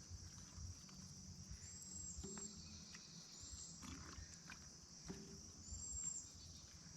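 Faint, steady chorus of crickets, with a few short high bird chirps over it.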